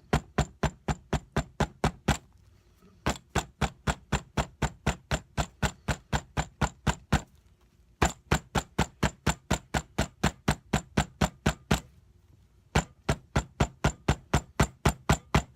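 A hammer pounding rapidly and evenly on a tabletop, about five blows a second, in four runs broken by brief pauses. It is crushing a morning glory flower against paper to press out its colour.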